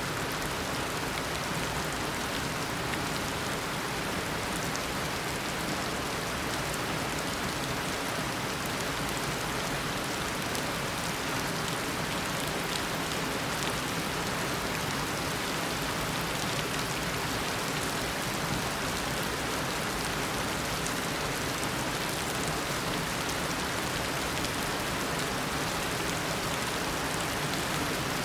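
Heavy tropical rain falling steadily, an even hiss of downpour with fine drop patter on surfaces.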